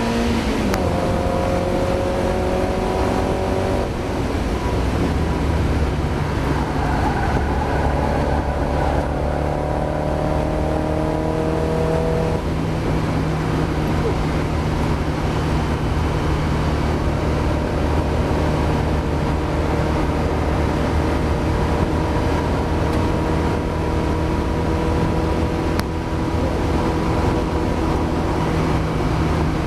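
Mazda MX-5 race car's four-cylinder engine heard on board, climbing through the revs with upshifts at about half a second, four seconds and twelve seconds in, then holding nearly steady revs for the rest.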